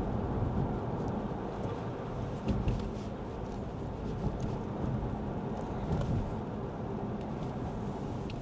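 Lexus ES 350 sedan driving on a wet road, a steady tyre and road noise heard from inside the cabin.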